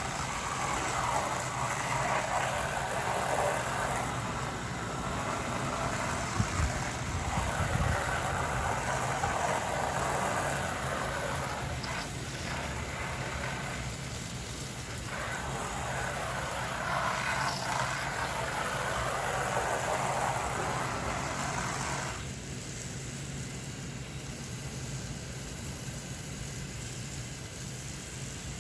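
Garden hose spraying Scott's outdoor siding cleaner against vinyl siding: a steady hiss of spray that breaks off briefly twice midway and stops about two-thirds of the way through. An air-conditioning unit hums steadily underneath.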